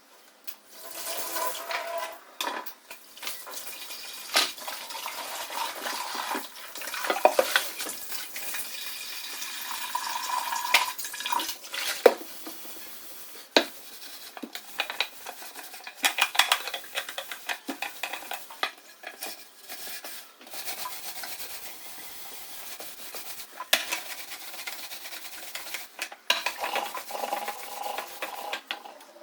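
Dishes and containers clinking and scraping as they are handled and wiped, with an irregular run of rubbing noises and sharp knocks now and then.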